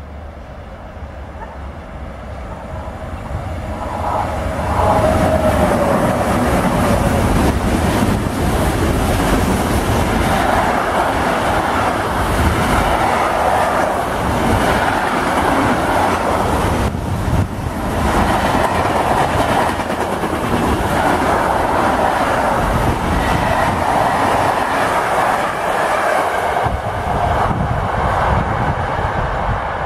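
A freight train carrying road semi-trailers passes at speed on a nearby track. The sound builds over the first few seconds as the train approaches, with a short whine about five seconds in. A steady rumble and clatter of wheels on rails follows for over twenty seconds and dies down as the last wagons go by near the end.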